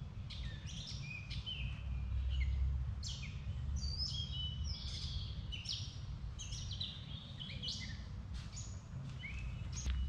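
Several songbirds singing and chirping, with short warbled phrases overlapping one another, over a steady low rumble.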